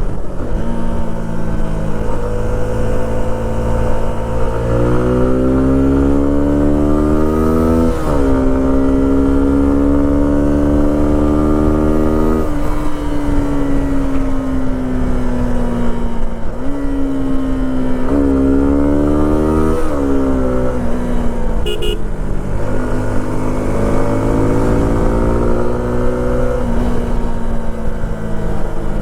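Suzuki V-Strom SX 250's single-cylinder engine under way, rising in pitch as it accelerates with a sharp drop at a gear change about eight seconds in. It pulls again, then eases off and falls in pitch, changes gear quickly twice, and accelerates again near the end.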